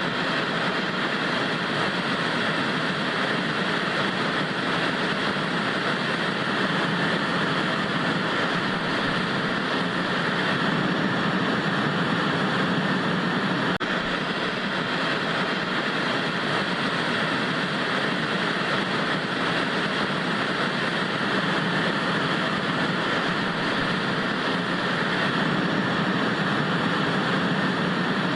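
Vintage TV static: a steady, even white-noise hiss that does not change.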